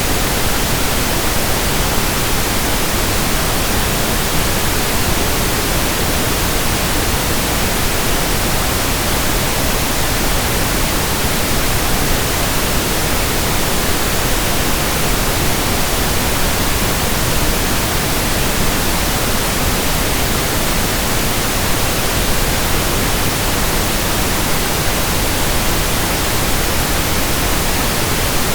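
Steady, unchanging pink noise: an even hiss spread across the whole range, like a soft rushing.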